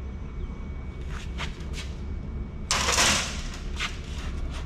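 Handling noise as scrap computer boards are moved: a few light clicks, then a brief louder scraping rustle about three seconds in, over a steady low hum.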